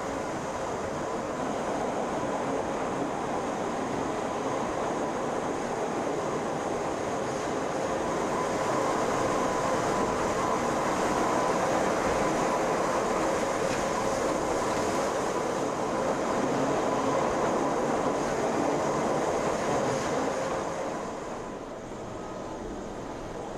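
Train running: a steady rolling rumble with a faint, even whine, dropping in level near the end.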